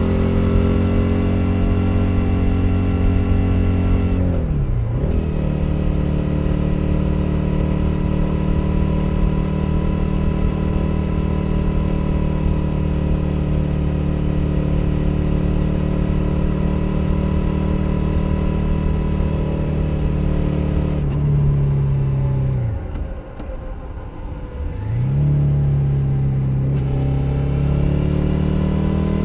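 A 2021 Suzuki SV 650's 645 cc V-twin engine and exhaust under way, heard from on board the motorcycle. About four seconds in the revs drop quickly and settle lower, as in an upshift, and then the bike holds a steady cruise. Past twenty seconds the revs fall sharply and the sound goes quieter for a few seconds, then it picks up again, with the pitch climbing near the end.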